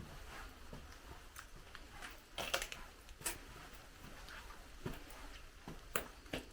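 Footsteps on a forest trail: a string of irregular short crackles and scuffs, a few louder ones in the middle and near the end.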